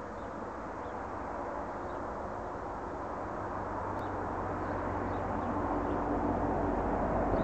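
PKP class EP07 electric locomotive hauling a passenger train approaching along the track, its low rumble growing steadily louder.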